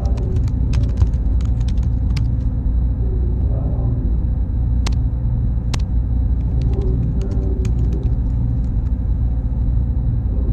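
Server room ambience: a steady low rumble of cooling fans and air handling with a thin high whine over it, and scattered sharp clicks.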